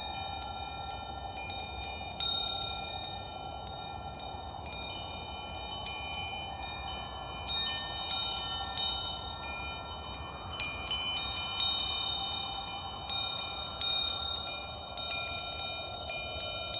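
Wind chimes ringing: high clear tones struck at irregular moments and ringing on, overlapping one another, with a louder cluster of strikes a little past the middle. A soft steady rushing sound runs underneath.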